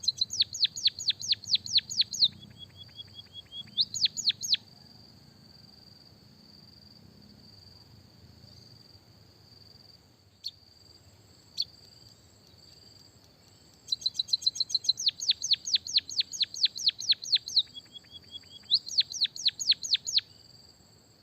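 Small songbird singing canary-style rolls: two bouts of loud, rapid notes that each sweep down in pitch, about five a second. Each bout breaks briefly into a softer, lower, faster trill, and between the bouts comes a quiet stretch of several seconds. A steady thin high drone like an insect runs underneath.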